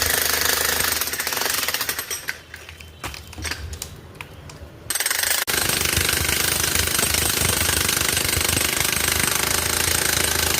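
Jackhammer breaking up a concrete pile, a rapid continuous hammering. It stops for about three seconds a couple of seconds in, then starts again.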